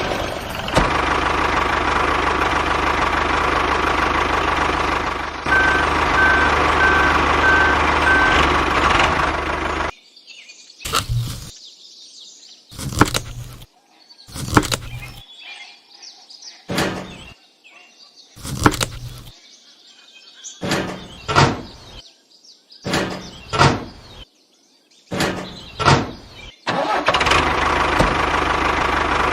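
A vehicle engine running steadily with a repeating beep. About ten seconds in it stops, and about a dozen separate short loud noises follow with quiet gaps between them. The engine sound comes back near the end.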